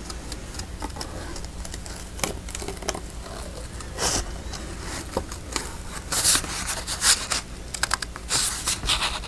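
Paper being cut and handled: a run of small clicks and snips with short rustling scrapes, louder and more frequent from about six seconds in.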